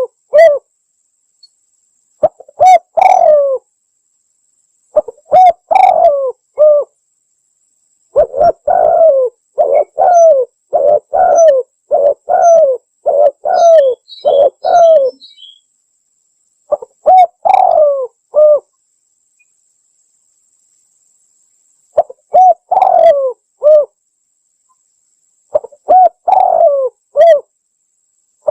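Spotted dove (tekukur) cooing in repeated short phrases of three or four notes with pauses of a few seconds between them, and a longer unbroken run of phrases in the middle. It is a recorded lure call used to draw in wild spotted doves.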